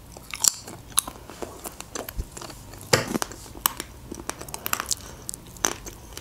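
A person chewing lasagna with the mouth close to the microphone: irregular crisp crunches and wet mouth clicks.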